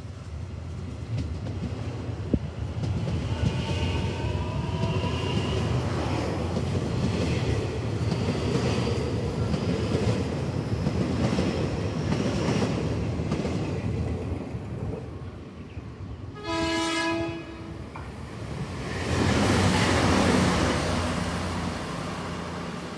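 Taiwan Railway DR1000 diesel multiple unit running through the station at speed: a steady rumble of engine and wheels with clicking over the rail joints. About sixteen seconds in, a train horn sounds once for about a second, and a swell of rushing noise follows.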